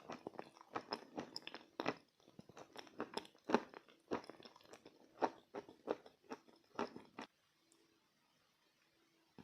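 Close-up crunching and chewing of edible chalk, crisp bites about twice a second that stop about seven seconds in.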